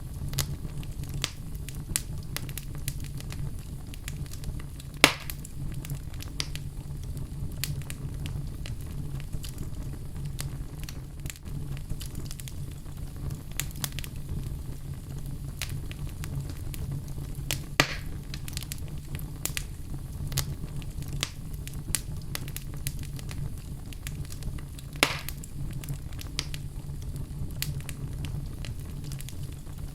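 Fire burning in a fireplace: a steady low rumble under a constant scatter of small crackles, with three louder pops, about five seconds in, around eighteen seconds and near twenty-five seconds.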